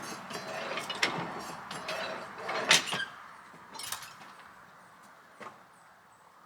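Old sawmill carriage moving along its steel rail with a rumbling, clattering noise and metal clanks, stopping with a loud clank about three seconds in. A couple of lighter knocks follow as it settles.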